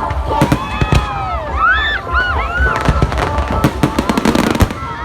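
Fireworks and firecrackers going off in quick, irregular cracks and bangs, with high sliding tones arching up and down through them.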